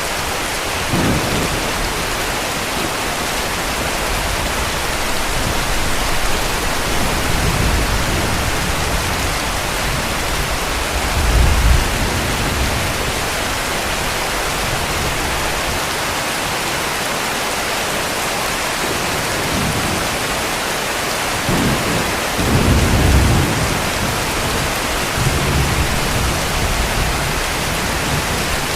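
Heavy rain falling steadily as a dense hiss, with distant thunder rumbling low several times, loudest about eleven seconds in and again near twenty-two seconds.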